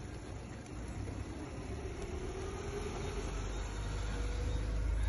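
Low engine rumble of a motor vehicle running, with a faint drifting hum, growing steadily louder.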